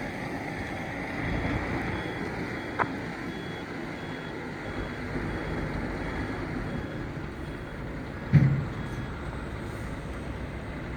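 Gravel dump truck's diesel engine running steadily, with a faint high beep repeating under a second apart. A sharp click comes about three seconds in, and a heavy thump, the loudest sound, about eight seconds in.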